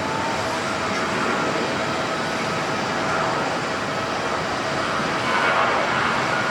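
Boeing 737-800 airliner's CFM56 jet engines at takeoff power: a loud, steady rushing roar with faint whining tones, swelling slightly near the end.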